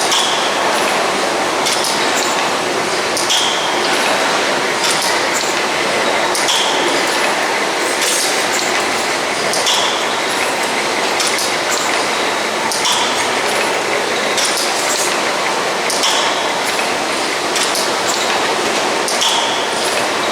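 Stationary steam mill engine running in a steady rhythm: a metallic clink about every one and a half seconds and a short high ping about every three seconds, over steady background noise.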